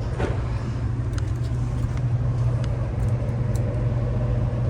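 Ruud air handler's newly replaced blower motor and blower wheel running steadily with a low, even hum, on fresh bearings after the old ones failed.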